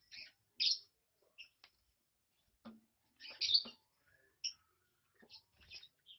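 Lovebirds chirping: short, sharp, high-pitched calls at irregular intervals, with a few clicks between them.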